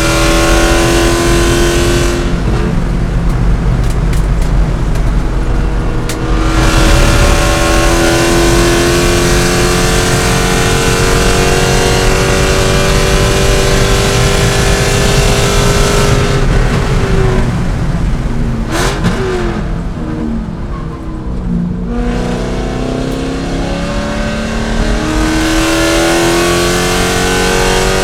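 C5 Corvette's 5.7-litre V8 race engine under hard acceleration, its note rising slowly with engine speed. Twice, about two and sixteen seconds in, the throttle comes off and the note drops away, with quick rev blips during the second lift-off near nineteen seconds, before it pulls hard again.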